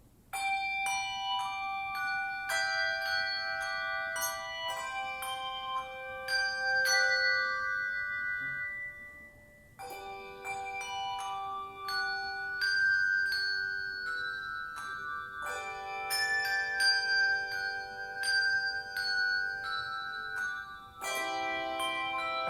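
Handbell choir ringing a piece: struck bell notes that ring on and overlap in chords, in phrases with brief breaks about ten seconds in and near the end.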